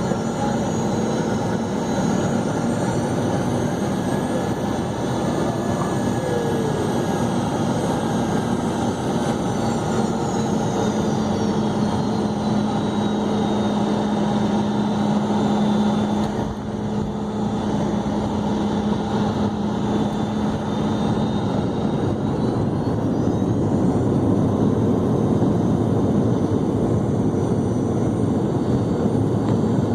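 Cabin noise aboard a Boeing 717-200 airliner: a steady rush of air and noise from its rear-mounted Rolls-Royce BR715 turbofans. A high engine whine falls in pitch about a third of the way in and climbs again later.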